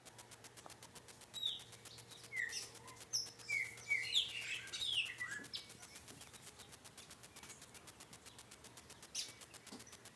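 Birds calling: a quick run of short, downward-slurred chirps in the first half, then a single fainter call near the end.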